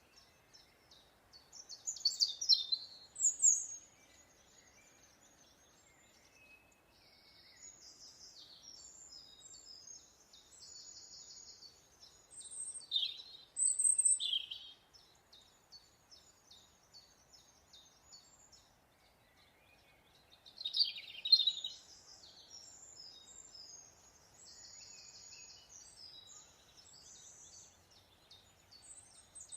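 Wild birds singing and chirping in high-pitched calls and trills, with three louder bursts of song spread through.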